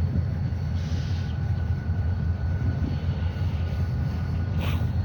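Freight train rumbling steadily, a deep continuous low rumble with faint steady high tones above it; a short hiss comes near the end.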